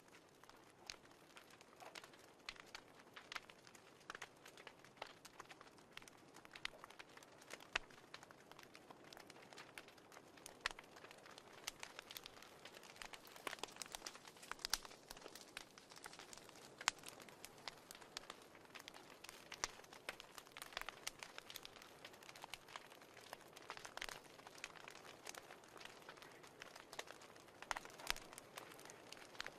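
Wood fire crackling faintly: irregular small pops and snaps, several a second at times, over a low steady hiss.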